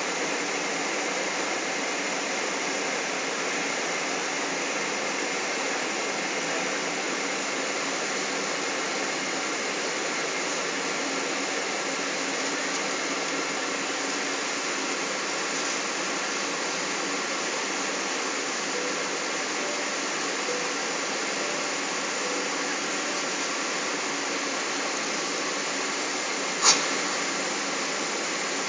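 Steady rushing cabin noise of a Boeing 777 airliner in flight: airflow and engine sound heard from inside the cabin. A single sharp click sounds near the end.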